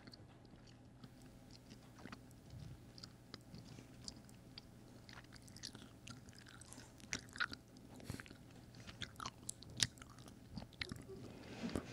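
A person chewing a gummy bear with a normal chew: faint, moist clicks and smacks of the mouth, growing more frequent after about five seconds.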